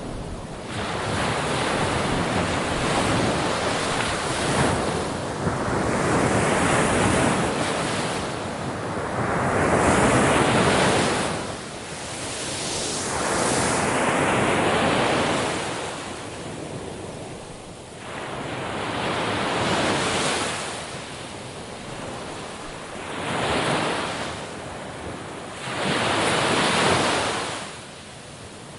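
Ocean waves breaking on a shore, a steady wash of surf that swells and falls back in rounds every few seconds, with some wind on the microphone.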